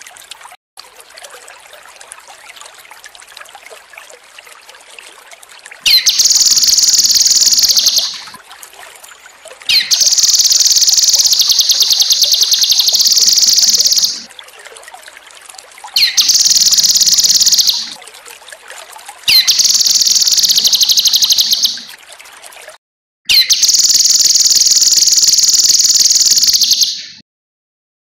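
Kinoi bird (cucak kinoi) singing loud, high, rapid trilling phrases in five bouts, each about two to four seconds long. Its song starts about six seconds in, after a stretch of soft trickling water.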